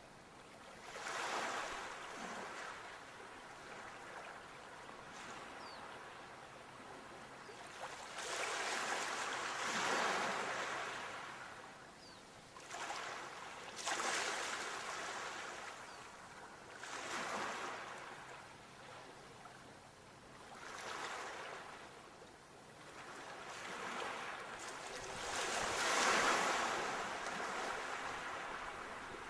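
Sea waves breaking and washing up the shore, a hissing surge that swells and fades about every three to four seconds, the loudest near the end.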